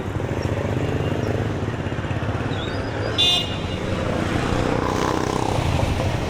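Street traffic with a motorcycle engine running close by and a steady rumble, broken by a short, loud horn toot about three seconds in.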